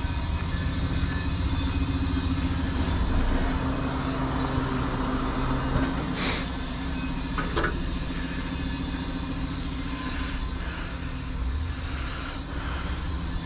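Heavy-duty tow truck's diesel engine idling steadily, with a short hiss about six seconds in.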